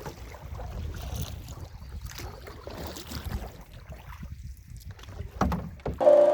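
Low rumbling wind noise on the camera microphone, with scattered knocks and rustles. Music cuts in suddenly near the end.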